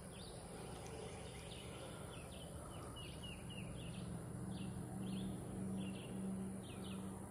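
Faint outdoor ambience: small birds chirping in many short, quick notes, over a low steady hum.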